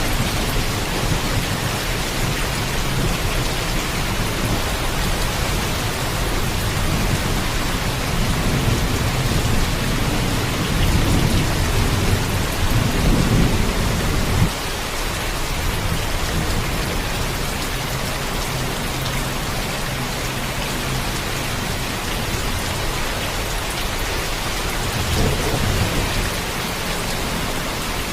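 Heavy, steady rain with low rolling thunder. The rumble builds from about eight seconds in and cuts off abruptly around halfway, and a shorter rumble comes near the end.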